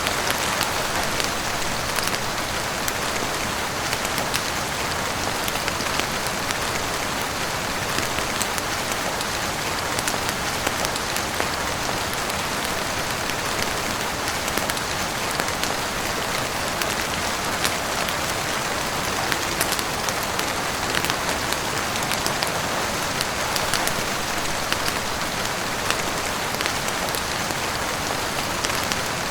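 Heavy rain falling steadily on a roof and windows, a dense even hiss scattered with many sharp little ticks.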